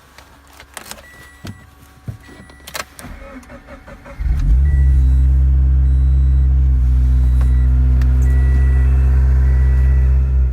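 The flat-four engine of a Scion FR-S (Toyota 86) starts about four seconds in on a freezing day, then runs at a steady cold-start idle. Before it starts there are a few clicks and a repeating electronic chime from the car.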